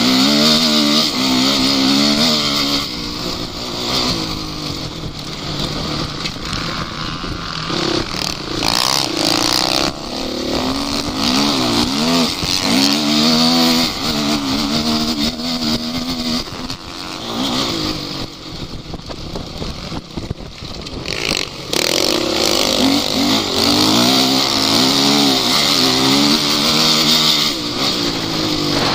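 Off-road vehicle engine running hard, its pitch repeatedly rising and falling as it revs up and eases off, over a steady rushing noise.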